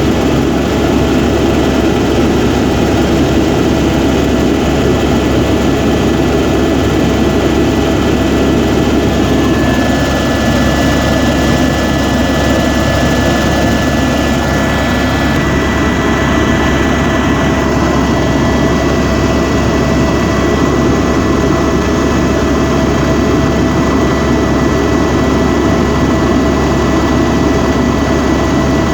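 Helicopter turbine and rotor noise, a loud steady drone with a high whine running through it.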